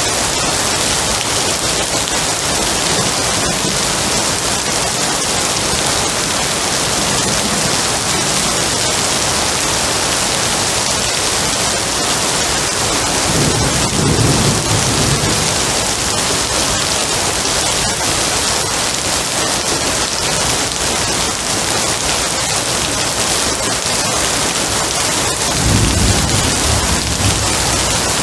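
Heavy steady rain hissing, with two low rolls of distant thunder, one about halfway through and a shorter one near the end.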